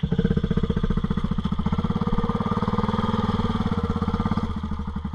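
Off-road vehicle's engine running under light load in a low gear, with a fast, even pulsing beat. It pulls a little harder about two seconds in, then eases off.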